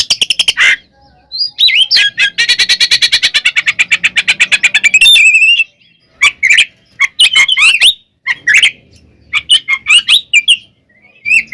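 Oriental magpie-robin (kacer) singing loudly. It opens with a quick rattle of notes, then gives a fast run of repeated notes, about ten a second, lasting nearly three seconds. After that come varied whistled phrases with notes that rise and fall.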